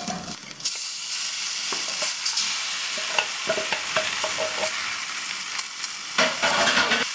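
Ground spices and masala frying in butter in a stainless steel kadai with a steady sizzle, a wooden spatula scraping and knocking against the pan. Marinated chicken pieces are tipped in from a bowl partway through and fry in the hot fat.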